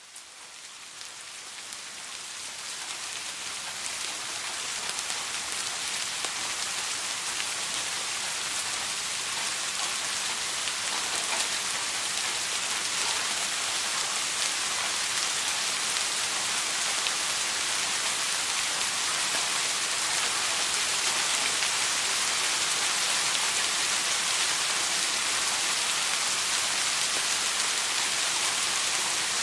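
Steady rain falling, a dense hiss with a fine patter of drops, fading in over the first few seconds and then holding steady.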